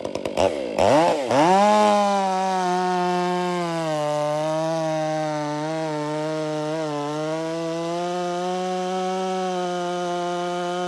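Stihl MS 500i chainsaw, a fuel-injected two-stroke, revving from idle up to full throttle about a second in and then running at high revs through a log, its note dipping slightly under load now and then. It is a test cut with a freshly fitted chain, because the old one was cutting down and to the right.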